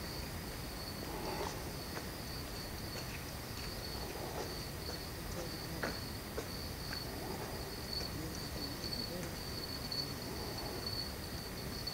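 Steady, high-pitched insect trill running without a break, over a faint even hiss.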